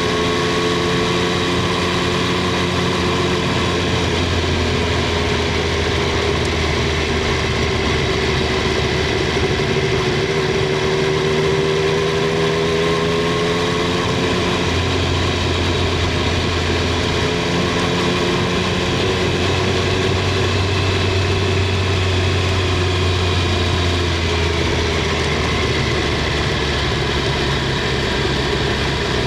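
Triumph Street Triple 765 R's inline three-cylinder engine and exhaust running at low, fairly steady revs, its pitch drifting slightly up and down.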